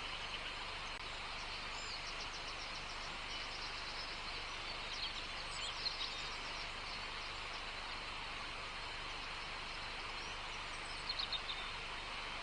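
Outdoor nature ambience: small songbirds chirping in short, quick series of high notes, a couple of seconds in, around the middle and near the end, over a steady even hiss.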